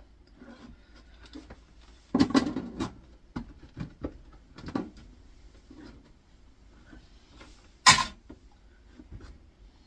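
Thin steel screen from an air fryer being folded over and handled by hand: scattered rustling knocks, a cluster of metal handling noise about two seconds in, and one sharp metallic knock near the eight-second mark.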